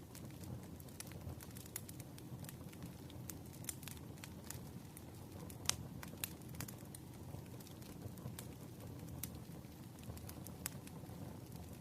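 Crackling fire with rain: irregular sharp pops and snaps over a steady low rushing noise, with one louder pop a little before halfway.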